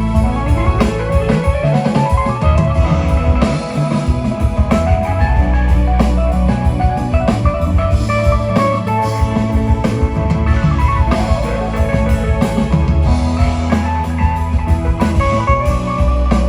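Live rock band playing, with guitar, bass and drum kit; a note glides upward about a second in.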